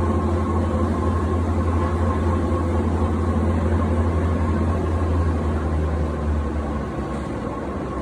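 Steady low hum and rumble of a moving Peak Tram funicular car, with a thin steady whine above it; it eases slightly about six to seven seconds in.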